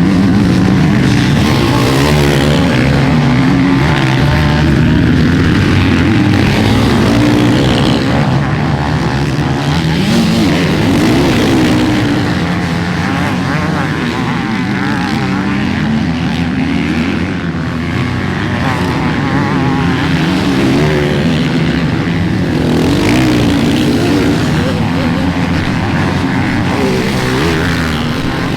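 Motocross dirt bike engines running loud, their pitch rising and falling over and over as the riders throttle on and off around the track.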